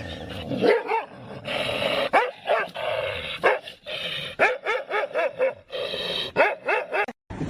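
A dog barking in a quick run of short, high, yipping calls.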